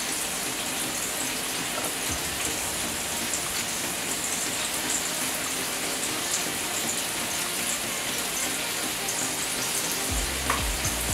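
Ground-beef burger patties sizzling steadily on an electric griddle.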